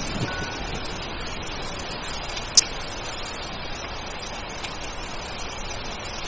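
Steady rain hiss, with a single sharp click about two and a half seconds in and a brief low falling groan at the very start.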